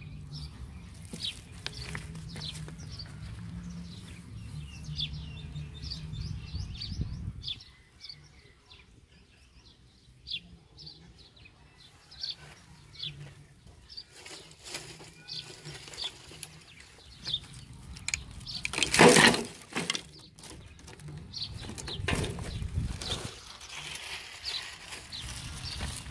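Small birds chirping with many short, high calls, over a low hum that stops about a quarter of the way in. About three-quarters of the way through, a loud burst of noise lasting about a second stands out above the birds.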